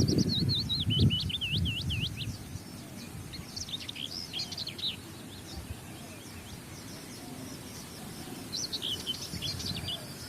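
Birds chirping in several bursts of quick, swooping high notes, near the start, around the middle and near the end. A low rumble is loudest in the first two seconds.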